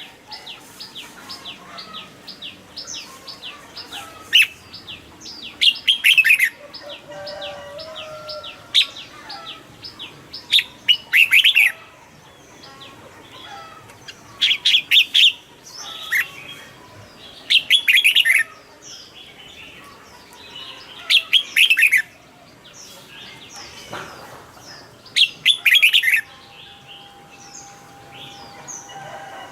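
Red-whiskered bulbul singing: short, loud, bright chirping phrases repeated about every three seconds, with softer chirps and twitters in between.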